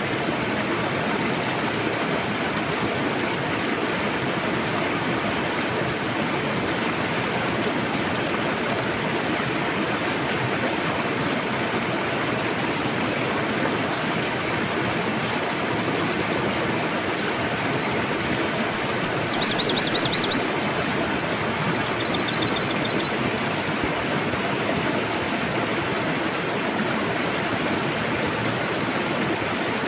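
River water rushing steadily over its bed. About two-thirds of the way through, a small bird gives two short, rapid, high trills a couple of seconds apart.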